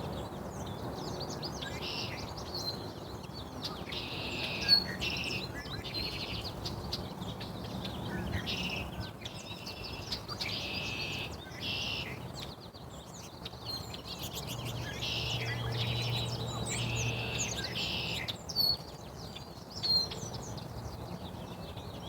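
Small birds chirping and calling, with repeated bursts of rapid chattering song, each half a second to a second long, and short high chip notes in between.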